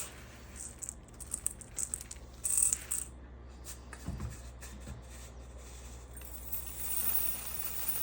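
Brass rifle cartridge cases clinking and rattling as they are handled, in a string of light metallic clicks. A steady hiss builds up over the last couple of seconds.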